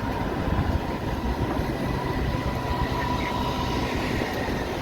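Heavy truck running on the road, a steady low rumble with a faint thin steady tone above it.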